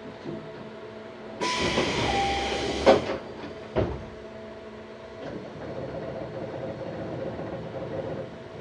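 Tobu 634-type train at a station stop: a loud rush of air about a second and a half in as the pneumatic doors work, ending in a thud, with a second thud a second later. Then the train's running noise starts to build as it pulls away.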